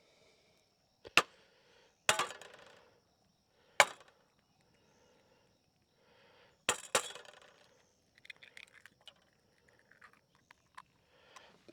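Sharp knocks and clinks against a pan, about five spaced a second or two apart, then lighter ticking: eggs being cracked and handled into a pan.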